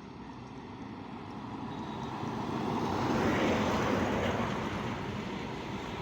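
A truck driving past, its engine and road noise building to a peak about halfway through and then easing off slightly.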